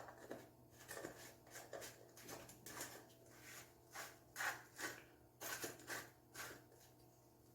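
Faint, irregular scrapes and rustles of a teaspoon scooping and levelling sodium bicarbonate (baking soda) out of its container, a little stronger about halfway through.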